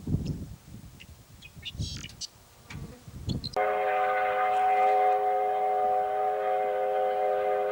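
Birds chirping over low, uneven rumbling. Then, about three and a half seconds in, the steam whistle of locomotive W901 starts suddenly and holds a loud, steady chord of several tones.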